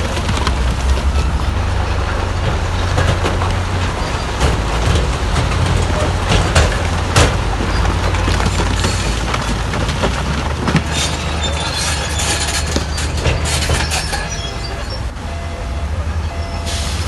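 Bulldozer's diesel engine running under load with a deep rumble, its steel tracks clanking and squealing throughout. Near the end a reversing alarm starts beeping steadily, a little more than once a second.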